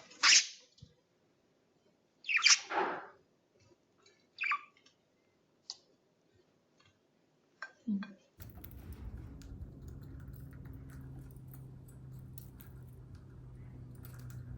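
Budgerigar giving a few short, separate chirps and calls, two of them loud. From about eight seconds in, a steady low hum with scattered light clicks.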